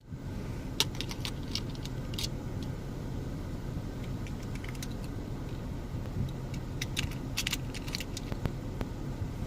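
Plastic toy monster truck clicking and rattling as it is handled or rolled, in small clusters of sharp clicks over a steady low hum.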